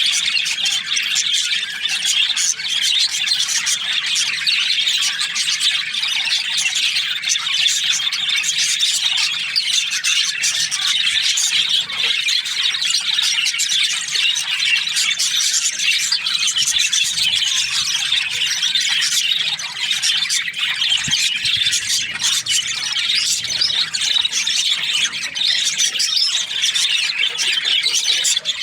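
A colony of budgerigars chattering and chirping, many birds at once in a dense, unbroken squawky chorus.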